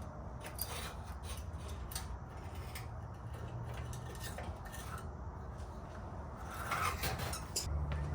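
Hand tools clicking, clinking and scraping against metal parts while bolts are worked loose on a car's front end, over a steady low hum.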